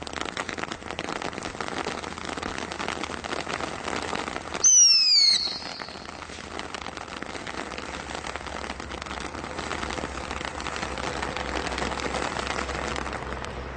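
Fireworks from a Brothers Pyrotechnics Bonfire Party selection box going off with dense, continuous crackling. About five seconds in, a loud whistle falls in pitch for under a second.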